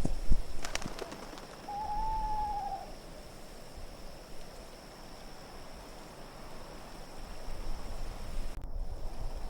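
An owl gives one drawn-out hoot about two seconds in, over a low wind rumble. A few brief clicks come just before the hoot.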